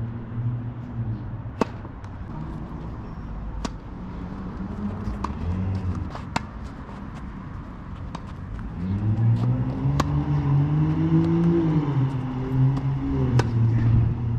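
Tennis balls struck with rackets, sharp hits every second or two. Underneath, a car engine hums, rising and growing louder about two-thirds of the way through.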